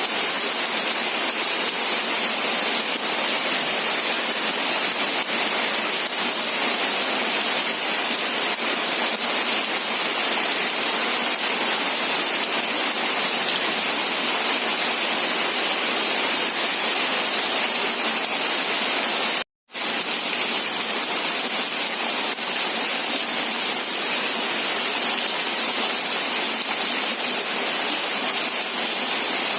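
Steady rain, an even hiss weighted toward the high end, with no separate drops or thunder standing out. It cuts out completely for a split second about two-thirds of the way through.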